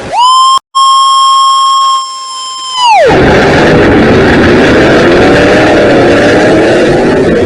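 A loud, steady, high horn-like tone holds for nearly three seconds, with a brief dropout early on, and sags in pitch as it ends. A big truck engine then runs loud at high revs, its pitch wavering.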